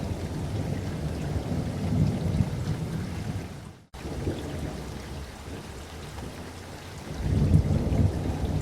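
Steady rain with rolling thunder, a low rumble swelling about two seconds in and again, louder, near the end. The sound cuts out completely for an instant about four seconds in.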